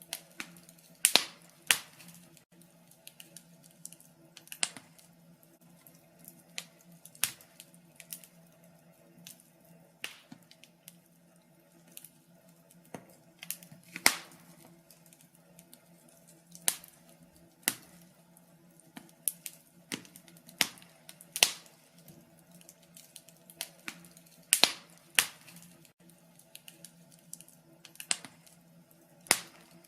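Wood fire in a fireplace crackling, with irregular sharp pops of varying loudness, a few much louder snaps among them, over a faint steady hum.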